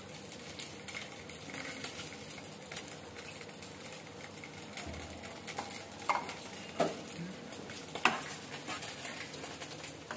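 Food frying in oil with a steady light sizzle, and a long metal spatula stirring and scraping the pan, with several sharper scrapes in the second half.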